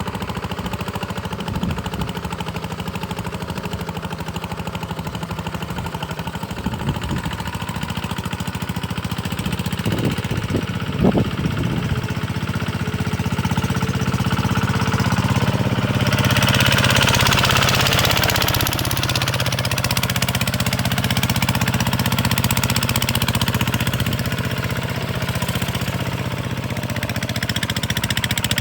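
Engine running with a steady, even beat. About ten seconds in it gets louder, with a few knocks, and a rush of hissy noise comes a little after the middle.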